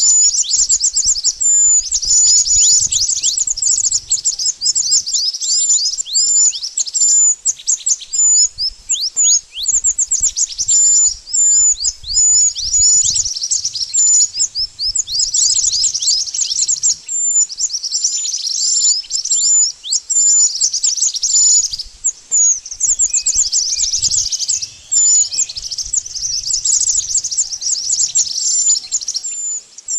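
Mantenan bird calling continuously: dense runs of rapid, high-pitched chirps, many of them quick downward sweeps, broken by brief pauses.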